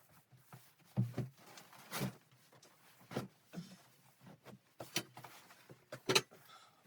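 A series of short knocks roughly once a second, the loudest near the start and about six seconds in, with faint rustling and scraping between them.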